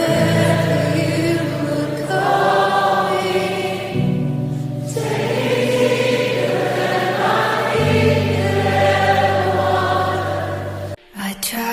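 Choral music: a choir singing long held chords over sustained low notes, the harmony changing about every four seconds, cutting off abruptly near the end.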